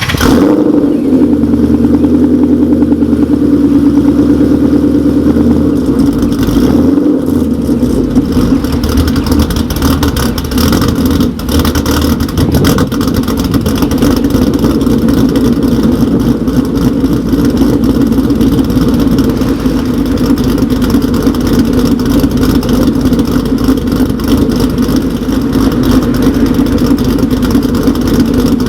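2013 Ford Mustang GT's 5.0 V8 running through BBK long-tube headers and Borla S-Type mufflers, a loud, steady exhaust note shaped by a ghost cam tune for a choppy idle, with a brief change in engine note about seven seconds in.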